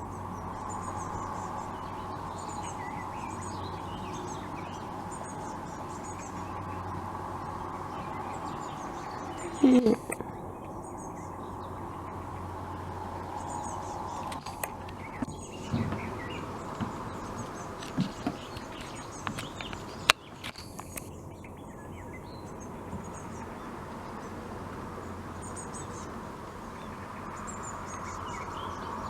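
Small birds chirping and twittering in short, high calls scattered throughout, over a steady background hum. A single loud, short falling sound comes about ten seconds in, and a few clicks follow later, one of them sharp.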